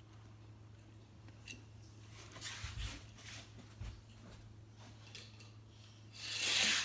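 Small clicks and rustles of die-cast toy cars being handled, then near the end a rising rolling rattle as a toy car runs down a toy race track toward the jump.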